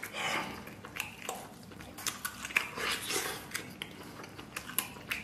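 A person eating braised pork knuckle close to the microphone: chewing and wet mouth sounds with scattered short, sharp clicks.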